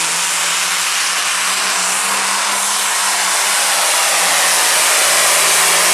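Turbocharged diesel pulling tractor at full throttle under load: a loud, steady rush of engine and turbo noise holding one constant pitch, growing a little louder near the end.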